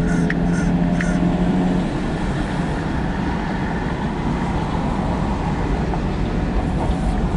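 Empty autorack freight cars rolling past, a steady rumble of steel wheels on rail, with rhythmic clicking for the first couple of seconds and again near the end. A steady hum under it stops about two seconds in.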